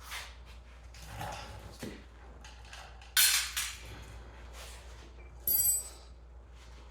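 Metal clanks and clatter from unbolting a small engine by hand, with long oily bolts and steel parts knocked and set down. There is a sharp clatter about three seconds in and a ringing metallic clink a couple of seconds later.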